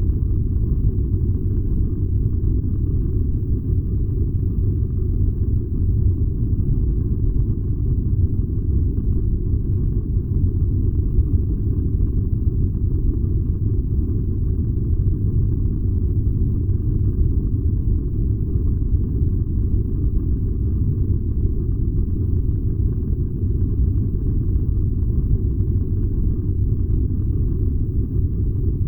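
Furnace running with a steady, deep rumble that doesn't change, without separate knocks or crackles.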